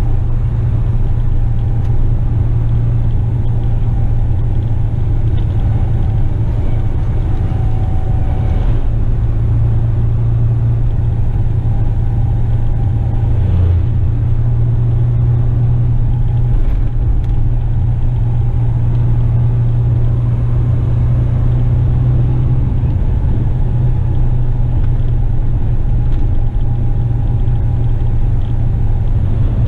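Western Star tipper truck's diesel engine running steadily while the truck drives, a constant loud low drone.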